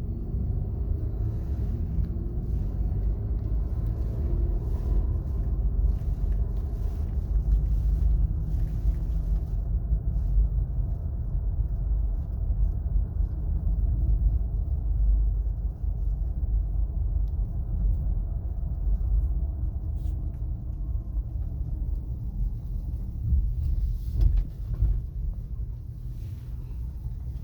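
2017 Acura MDX FWD driving: steady low road and tire rumble, with the whining noise that the owner links to road speed and places at the front passenger side. Dropping a couple of PSI in each tire has not cured it.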